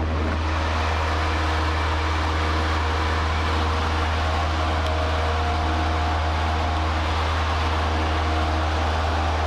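Cessna 152's four-cylinder Lycoming O-235 engine and propeller in cruise, a steady, even drone with a deep low hum that does not change.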